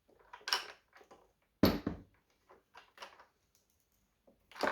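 Hard plastic parts of a robot vacuum handled and fitted together by hand: a few scattered clicks and knocks, the loudest about a second and a half in.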